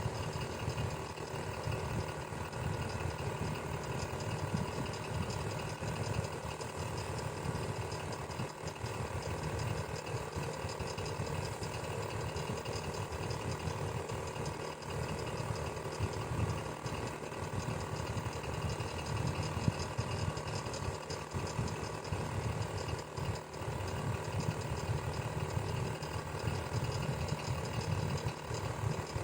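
Electric fan running steadily: an unbroken motor hum and whir, deepest and strongest in the low range, with several steady higher tones over it.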